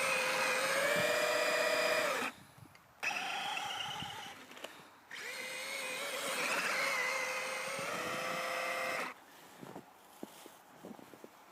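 Brushless electric motor and geartrain of an RC Axial Wraith crawler whining under throttle while pushing through deep snow. It runs in three bursts with short stops between, the whine rising and falling in pitch, and drops away about nine seconds in, leaving faint clicks.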